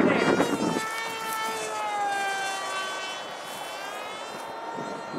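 Electric Stryker RC plane's Castle brushless motor and propeller whining in flight, the pitch sliding down for a couple of seconds and then holding steady. Wind buffets the microphone in the first second.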